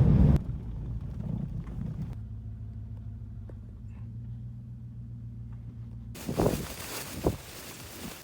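An engine running steadily at idle, a low even hum. About six seconds in, wind buffeting the microphone takes over, with two loud gusts.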